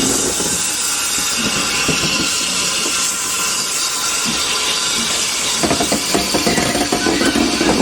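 Steam locomotive letting off steam: a steady loud hiss. About five and a half seconds in, a heavier rumble with rapid knocks joins it.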